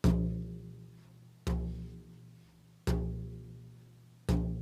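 A drum struck in a slow, steady beat: four single strikes about a second and a half apart, each leaving a deep ringing tone that fades away.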